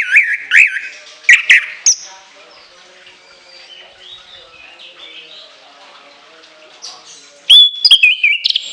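Orange-headed thrush singing loud, shrill whistled phrases that jump sharply in pitch. There is one burst in the first two seconds and another for about a second near the end, with only faint calls in between.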